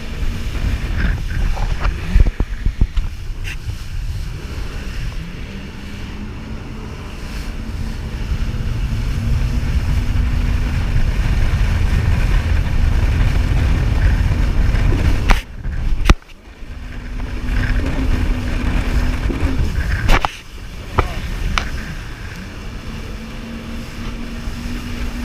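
Jet ski engine running steadily over a heavy low rumble, with wind on the microphone and several sharp knocks; the sound drops away briefly about two thirds of the way through.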